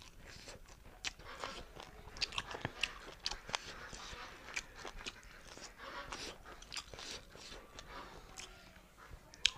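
A person chewing beef and rice close to a clip-on microphone: irregular wet smacks, clicks and mouth sounds, many short ones in a row.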